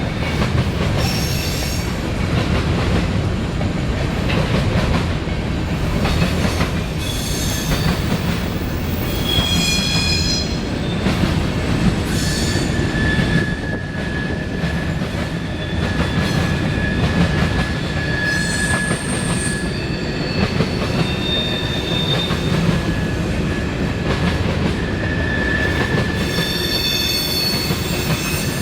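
CSX freight train cars rolling past on the rails with a steady low rumble, the wheel flanges squealing in high ringing tones about a third of the way in and near the end, with a thinner steady squeal through the middle.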